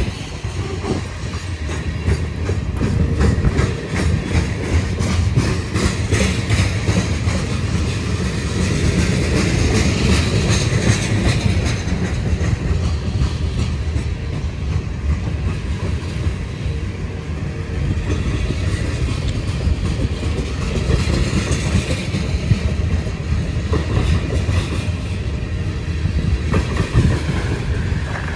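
Covered hopper cars of a freight grain train rolling past close by: a steady rumble of steel wheels on rail with continual clicking as the wheels pass over the rail joints.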